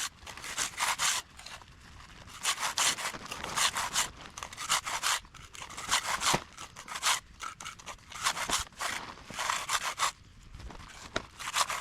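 Hand finishing tool scraping over setting concrete in repeated back-and-forth strokes with short pauses.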